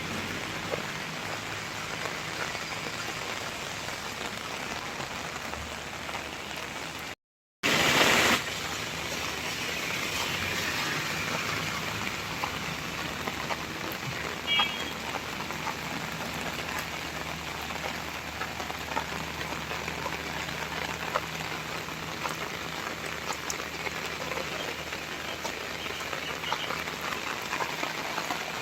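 Steady rain falling and pattering on surfaces. About a quarter of the way in the sound drops out for a moment and comes back briefly louder; about halfway a short high beep sounds once.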